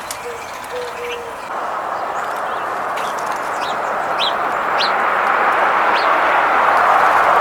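A bird gives about half a dozen short, high, falling chirps. Under them is a rushing noise that builds steadily over several seconds and is loudest near the end.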